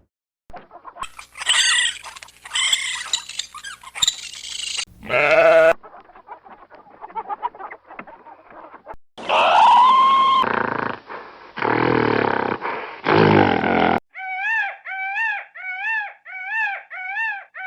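A run of farm animal calls, one clip after another: several loud pitched calls and bleats in the middle, ending with a quick series of seven identical short arched calls, about two a second.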